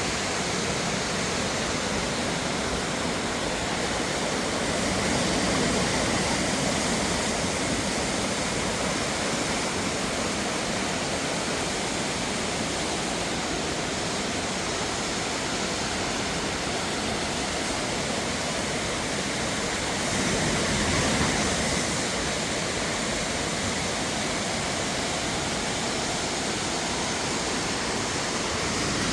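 Waterfall cascading over rocks: a steady, full rushing of falling water that swells slightly a few times.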